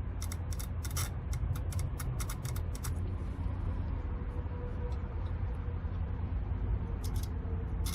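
A fuel injector from a 2014 Ford F150, out of the engine, clicking fast as 12 volts is applied to it on the bench: about four or five clicks a second for roughly three seconds, then a few more near the end. The clicking shows the injector's solenoid is working, unlike the silent, open-circuit third injector.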